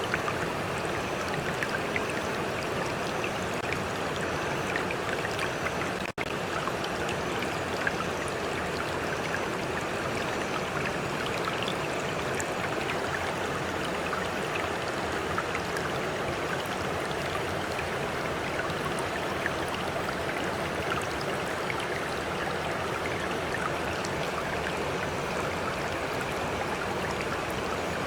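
Stream water flowing steadily, a dense wash of rushing and lapping water dotted with small splashes and drips. The sound cuts out for an instant about six seconds in.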